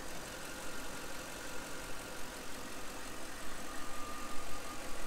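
Toyota Land Cruiser 100 series' 4.7-litre 2UZ-FE V8 idling steadily, heard close in the engine bay, with a faint steady whine over it. The whine has not been cured by a new power steering pump, though it is now quiet.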